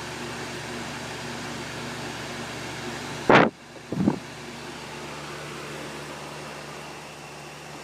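2002 Lennox central air conditioner's outdoor condensing unit running steadily, its Copeland scroll compressor and condenser fan giving a constant hum. About three seconds in, a sudden loud, short burst of noise, followed by a smaller one, after which the hum sounds a little quieter.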